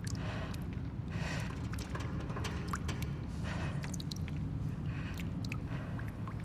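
Abandoned-building ambience soundscape: a steady low rumble with scattered small clicks and ticks and brief hissy swells every second or so.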